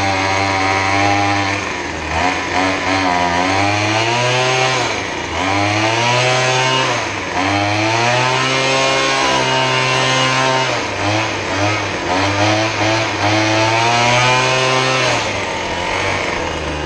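Gas leaf blower's small engine running just after a cold start, its throttle revved up and down over and over, the pitch rising and falling every second or two.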